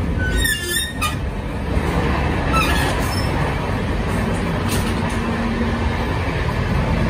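Passenger train running, heard inside a coach near its door: a steady low rumble of wheels on rail, with a few short high squeaks in the first three seconds.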